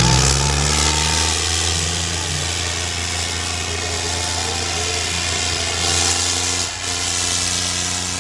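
Diesel tractor engine running steadily at high revs, pulling under heavy load, with a brief dip in level near the end.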